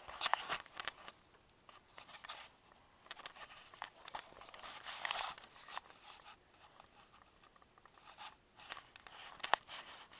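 Faint rustling and crinkling handling noises with a few sharp clicks, coming and going in short patches; no engine is running.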